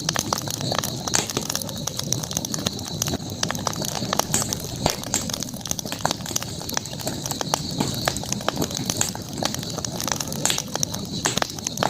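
Campfire burning, wood crackling with irregular sharp pops and snaps over a steady hiss.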